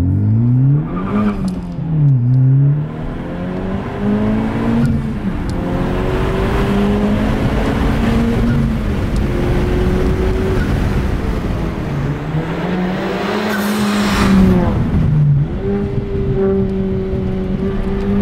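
Honda Civic Type R's turbocharged four-cylinder engine pulling hard through the gears. The pitch climbs, then drops back at each shift, twice in the first few seconds and again later, with long steady stretches at high revs in between.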